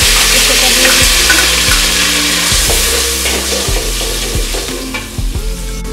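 Onion, garlic and ginger paste sizzling loudly as it hits hot oil in a metal pot and is stirred with a metal spoon. The sizzle dies down steadily over the next few seconds.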